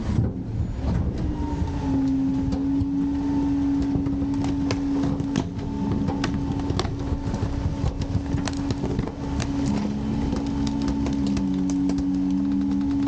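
Garbage truck's hydraulic packer cycling: the engine and hydraulic pump hold a steady whine under load, with scattered clanks and knocks from the packer mechanism and a second, lower tone joining near the end.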